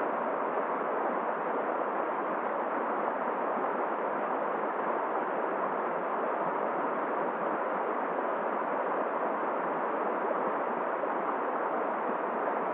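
Steady, unbroken rushing of a flowing river mixed with blowing wind, with no single event standing out.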